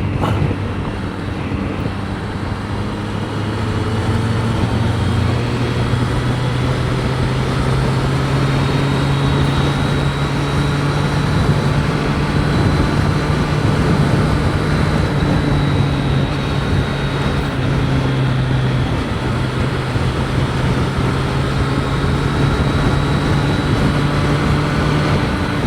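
Triumph Street Triple 765 RS inline-three engine running steadily at highway speed, heard from a mic inside the rider's helmet, under heavy wind noise. The engine note rises a little about four to five seconds in, then holds.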